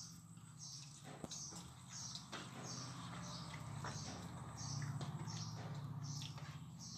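A bird chirping over and over, about two short high calls a second, with a low hum that grows louder in the middle and a few faint clicks.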